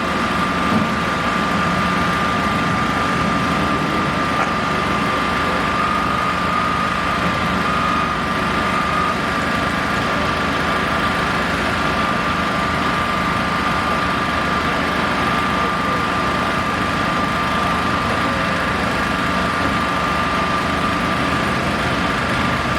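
Heavy engine, likely construction machinery, running steadily with an unbroken high-pitched whine over the rumble.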